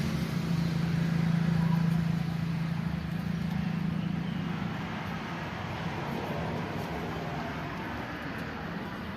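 A vehicle engine running with a steady low hum, loudest in the first couple of seconds and then slowly fading.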